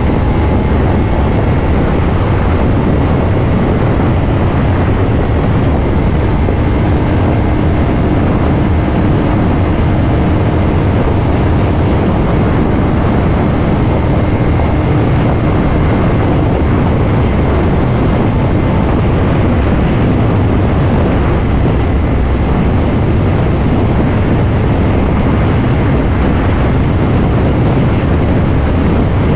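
Loud, steady wind rush on a motorcycle rider's microphone at highway speed, with the Kawasaki Ninja 500's parallel-twin engine droning underneath.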